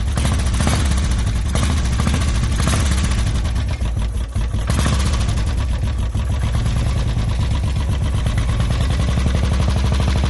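Royal Enfield Bullet's single-cylinder four-stroke engine running steadily through a Red Rooster stainless-steel performance exhaust, a rapid even exhaust beat, dipping briefly about four seconds in before settling back.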